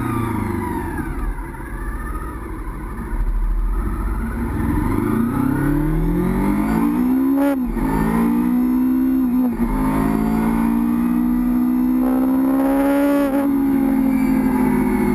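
Honda VFR800 FI's V4 engine on the move: the revs die away, then it accelerates through the gears, the pitch climbing and dropping sharply at each upshift, about halfway, again a couple of seconds later, and near the end.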